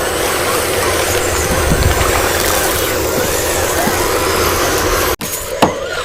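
Remote-control construction vehicles working, with a steady mechanical motor-and-gear noise. It cuts off abruptly about five seconds in, and a sharp knock follows.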